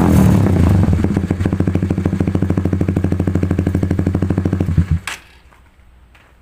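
Single-cylinder Honda CBR150R engine idling through an Audey CR-T aftermarket exhaust, with an even, rapid pulsing beat. It is shut off about five seconds in.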